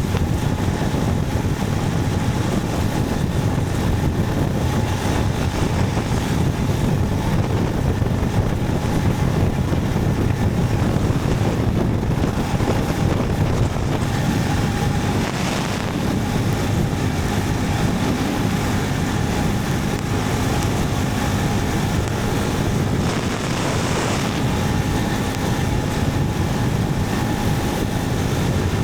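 Motorcycle running at road speed, its engine under heavy wind noise on the microphone, steady throughout with two brief swells about halfway and near the end.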